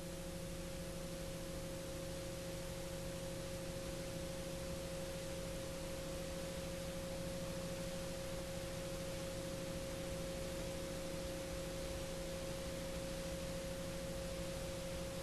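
Garrett TPE331 turboprop engine held at high run-up power, around 79% torque: a steady high tone over a lower hum and hiss, unchanging throughout.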